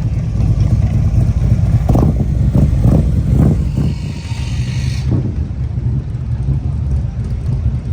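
A motor vehicle running, a steady low rumble, with a brief hiss higher up from about three to five seconds in.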